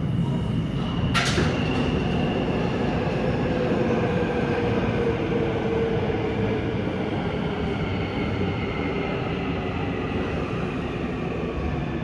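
Seoul Subway Line 2 train pulling into the station, a steady rumble of wheels on rail with a slowly falling motor whine as it slows. A sharp click about a second in.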